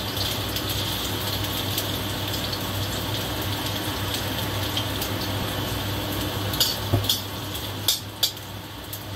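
Potato pieces sizzling as they fry in oil in a stainless steel wok, a steady hiss. Near the end a metal ladle clinks against the wok a few times as the potatoes are turned.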